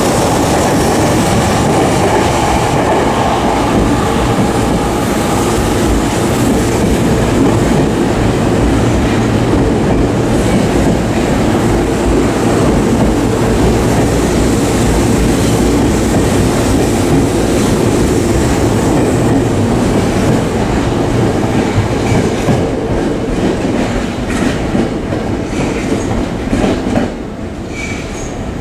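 Electric commuter trains running along the tracks past the platform and pulling away: a loud, steady rumble of steel wheels on rail with clickety-clack over the rail joints, easing off over the last few seconds as the trains recede.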